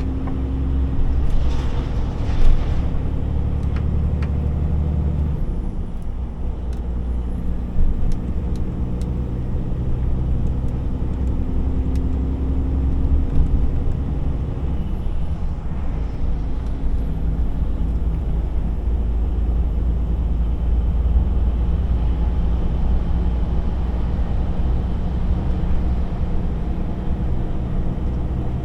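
DAF XF 480 truck's diesel engine running with a steady drone and road noise, its pitch shifting a couple of times. A few sharp clicks cut in early and again near the middle.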